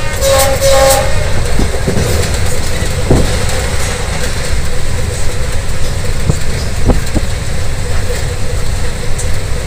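Passenger train hauled by a Henschel diesel locomotive running along the track: a loud, steady low rumble with a few sharp clacks of the wheels over rail joints. The horn gives two short blasts in the first second.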